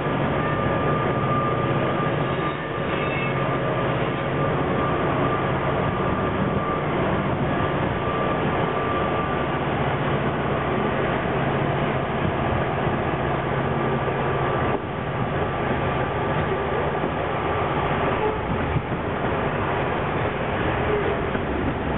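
Pacific National 90 class diesel locomotives pulling a loaded coal train away, a steady engine drone with a thin high tone over it, giving way about two-thirds of the way through to the steady rumble of loaded coal hopper wagons rolling past on the rails.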